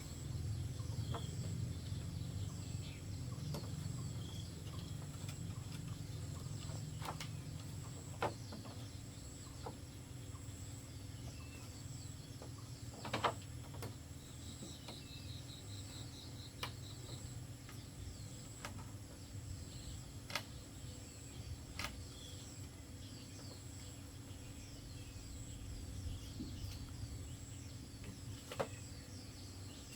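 Outdoor rural background with a steady low rumble and a steady high insect-like whine, birds calling with a short rapid trill about halfway through, and a few sharp single knocks scattered through it.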